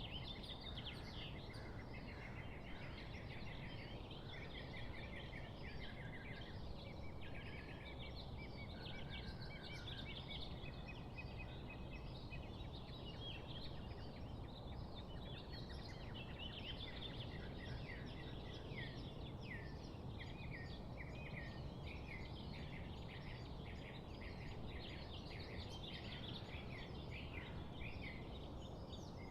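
A flock of small birds chirping and chattering continuously, many short high calls overlapping, over a steady background hiss.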